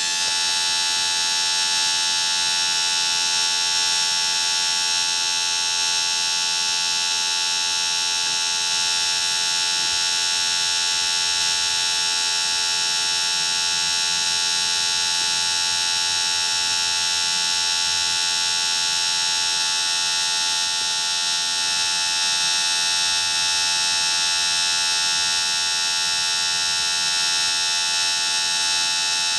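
Small electric motor running with a steady high-pitched whine, holding the same pitch throughout.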